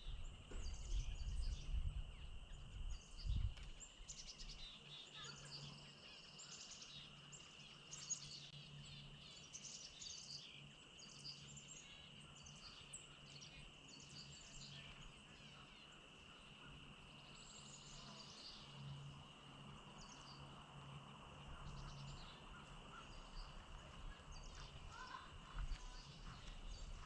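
Faint chorus of small birds chirping and singing in trees, with many short high calls and a steady high whine underneath. Low rumbling in the first few seconds.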